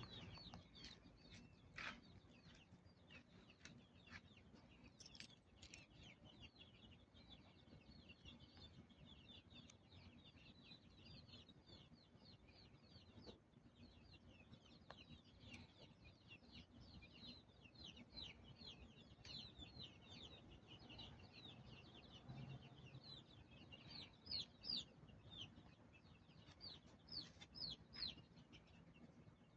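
Many small birds chirping together, a dense, continuous stream of short, high, downward-sliding chirps.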